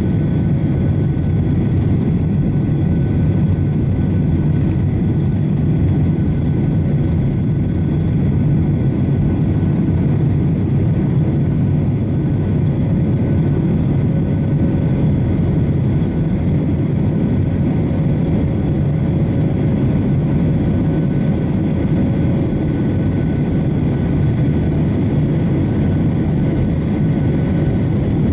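Boeing 737-800 in its climb after takeoff, with CFM56 jet engines and airflow making a steady low rumble and a few faint steady whining tones above it.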